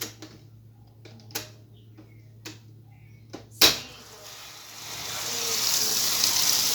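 Whirlpool washing machine: a few light clicks and one loud clunk, then water starting to pour into the tub with a hissing rush that grows louder and then holds steady.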